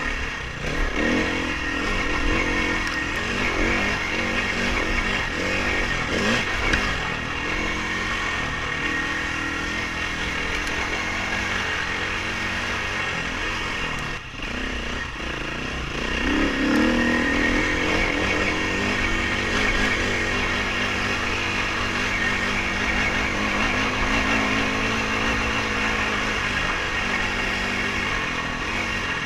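Dirt bike engine being ridden hard, its pitch rising and falling with the throttle, with a brief dip in loudness about halfway through.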